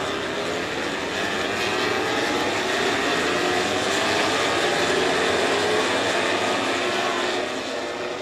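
Several motorcycle engines running at once, their pitch rising and falling at different rates. The sound builds to its loudest around the middle, then fades near the end.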